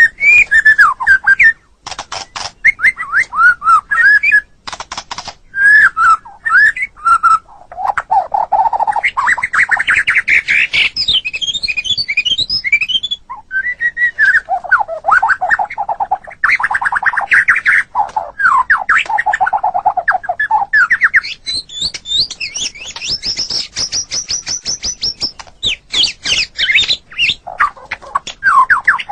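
White-rumped shama (murai batu) singing a continuous, varied song of rapid chattering notes, sweeping whistled phrases and fast high trills.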